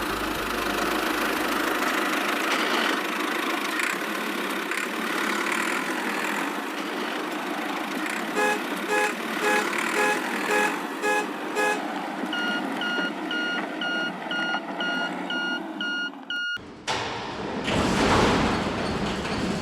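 Steady vehicle-like running noise with two runs of short electronic beeps, about two or three a second, like reversing beeps. The first run is lower-pitched and the second higher. It all cuts off suddenly near the end and a different noise follows.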